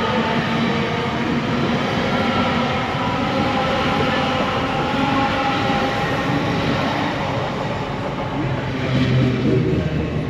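A train running past close by, a steady loud mix of traction and wheel-on-rail noise, with a deeper low rumble swelling near the end.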